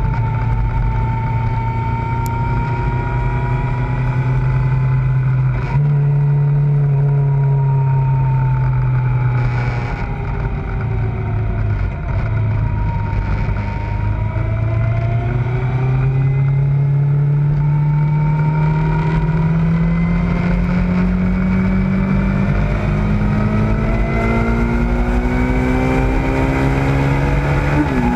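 Kawasaki ZZR600 motorcycle's inline-four engine running under way, with wind rush. Its pitch jumps up about six seconds in and drops about ten seconds in, as with gear changes, then climbs steadily through the second half as the bike accelerates in one gear.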